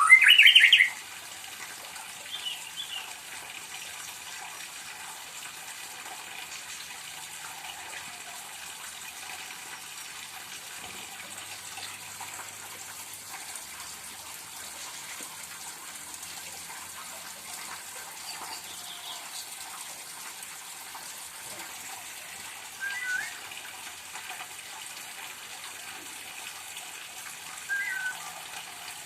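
A murai (white-rumped shama) gives a loud rising whistled phrase right at the start, then calls only twice more, briefly and faintly, near the end. Under the calls is a steady hiss.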